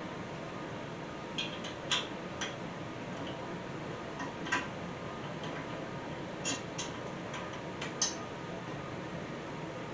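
Light metal clicks and clinks from small hardware and tools being handled, about eight irregular taps over a steady background hiss.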